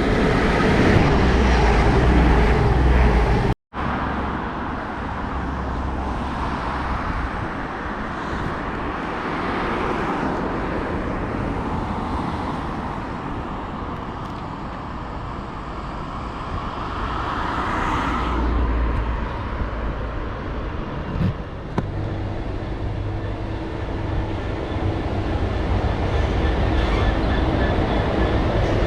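Train passing through a station, a steady rumble and rush of wheels on track that cuts out for an instant about three and a half seconds in.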